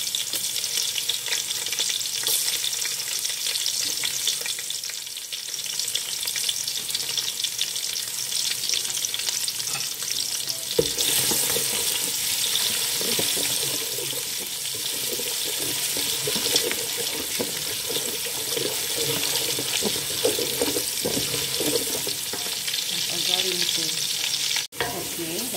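Sliced shallots, garlic and ginger with whole spices frying in hot oil in a pot, a steady sizzle. About eleven seconds in there is a knock, and after it the frying sounds fuller.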